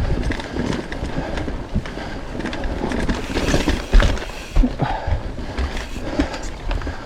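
Mountain bike riding on a dirt forest trail: wind rumble on the camera microphone with knocks and rattles as the bike goes over bumps, loudest in a thump about four seconds in.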